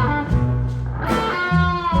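Live blues-rock band playing an instrumental passage: electric guitar lead with long held notes, some bent in pitch, over bass and drums.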